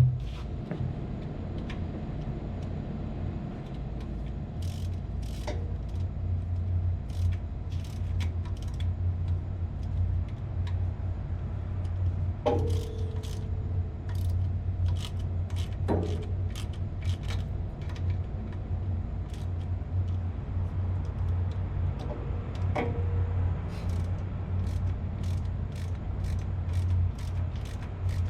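Steady low machinery hum with scattered small clicks and three ringing metal clinks, as of hand tools working on metal.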